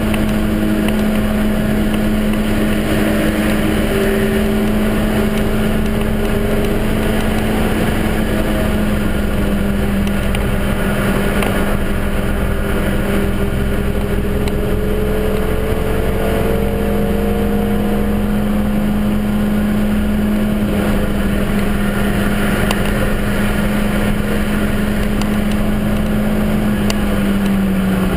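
Suzuki Swift Sport's 1.6-litre four-cylinder engine running hard at a nearly steady pitch, heard from inside the stripped-out cabin over road and wind noise. The pitch drops briefly at the very end.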